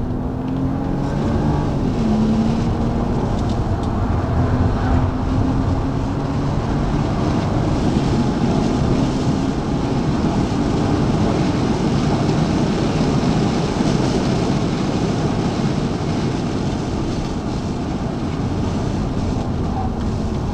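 BMW's engine under hard acceleration, heard from inside the cabin, its pitch rising with a gear change about two seconds in as the car runs up to about 140 km/h on a circuit straight. Wind and road noise grow loud at speed, then ease near the end as the car slows for the next corner.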